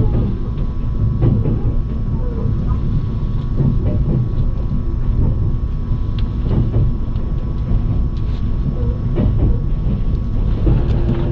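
A train running, with a steady low rumble from wheels on the track and scattered clicks and knocks.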